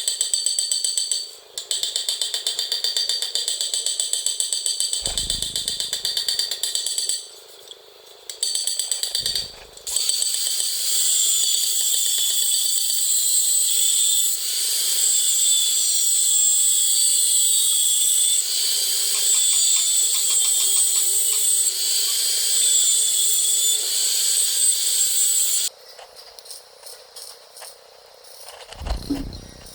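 A power tool cutting metal exhaust tubing, a steady high-pitched whine with cutting noise. It pauses briefly a few times and stops abruptly about 26 seconds in.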